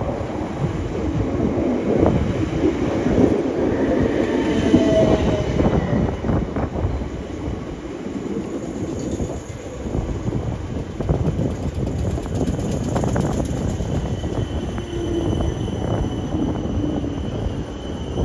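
Class 455 electric multiple unit rolling along the platform: a steady rumble of wheels on rail with repeated clicks over the rail joints. Thin high squeals come from the wheels about a quarter of the way in and again near the end.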